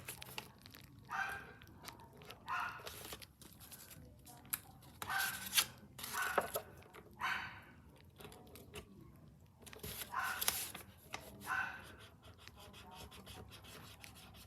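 Orange alcohol marker rubbing across the paper airplane in a series of short colouring strokes with pauses between them.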